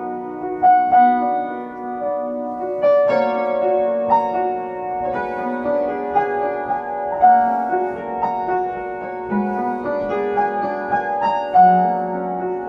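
Instrumental interlude of a slow worship song: piano or keyboard playing sustained chords and melody notes.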